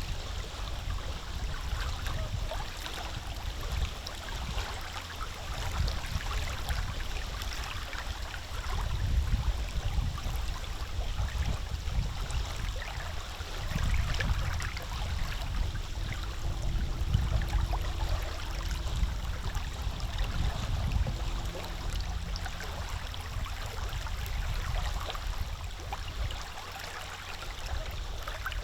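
Small wind-driven waves lapping and splashing at a lake's edge, with wind gusting on the microphone as a rumble that swells and fades.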